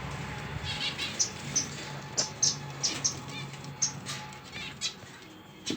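Pet finches giving short, high chirps every half second or so, with small clicks and rustles, over a low steady hum.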